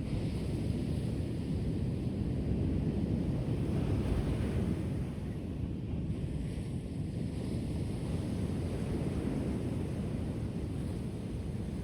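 Ocean surf, waves washing onto the shore as a steady low rush that swells and eases a little.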